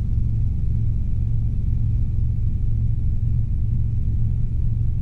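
Robinson R22 helicopter's engine and rotors droning steadily in flight, a constant low hum with no change in pitch.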